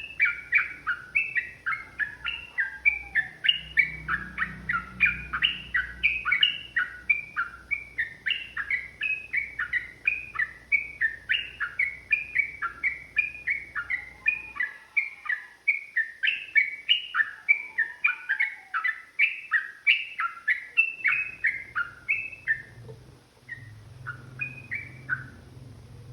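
Yellow-vented bulbul singing a long, fast run of short chattering notes, several a second. Near the end the notes thin out to a few scattered calls and then stop.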